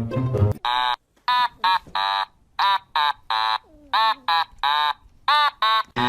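A kitten mewing over and over: about a dozen short, high calls, each rising and then falling in pitch, roughly two a second. Music cuts off about half a second in, just before the calls begin.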